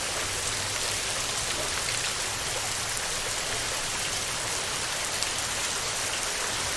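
Heavy rain falling steadily on a metal roof: a dense, even patter of many small drop ticks.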